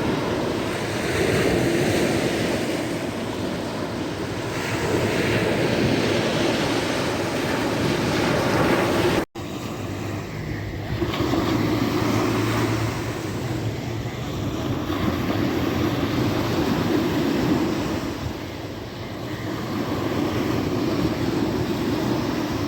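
Sea waves washing on a shore, swelling and falling back every four to five seconds, with a momentary break in the sound about nine seconds in.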